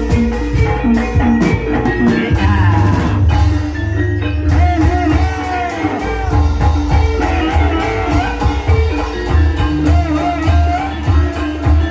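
Banyumas gamelan music for an ebeg hobby-horse dance: quick drum strokes over ringing metallophones, with a wavering melody line above.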